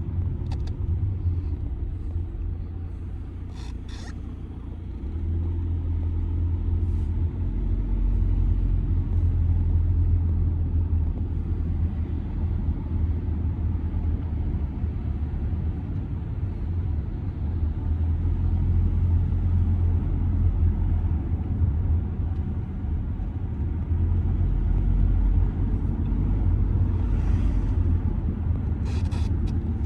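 2007 Audi A6 C6 2.0 TDI under way, its four-cylinder diesel engine and road noise making a steady low rumble that grows louder about five seconds in and then holds.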